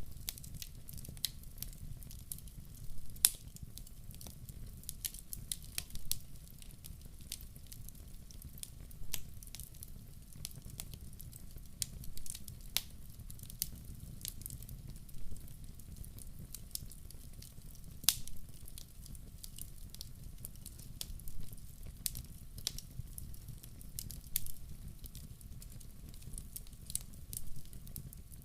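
Wood fire burning in a stove, crackling with irregular pops and snaps over a steady low rumble of the flames.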